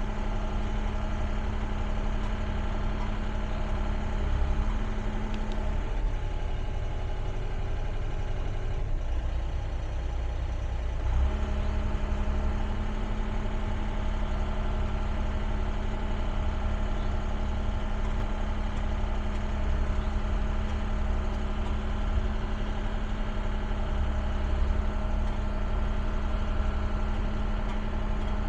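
Caterpillar excavator's diesel engine running steadily while the machine works its way across a very steep slope. About six seconds in, the engine note changes and thins for several seconds. It comes back fuller about eleven seconds in.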